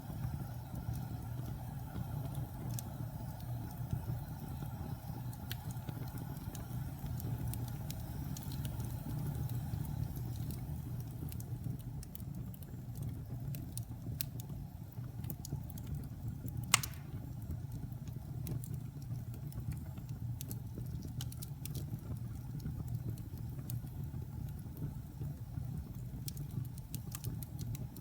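Wood fire in a fireplace burning with a steady low rumble and scattered small crackles, and one sharp, loud pop a little past halfway.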